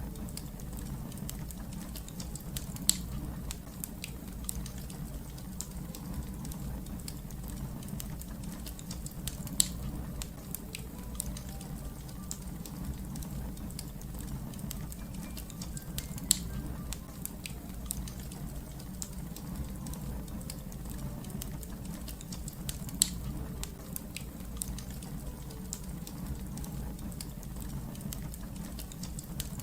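Wood fire crackling with many small snaps over a steady low rumble, and four loud sharp pops spaced several seconds apart.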